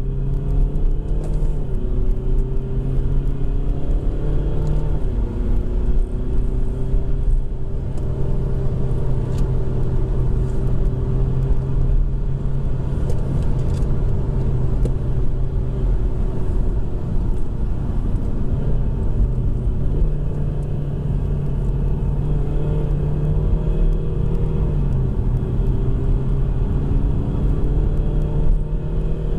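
BMW F20 120d's four-cylinder turbodiesel engine pulling hard, heard from inside the cabin at track speed over heavy road and tyre rumble. The engine note climbs, then drops sharply about five seconds in and again near the end as it shifts up.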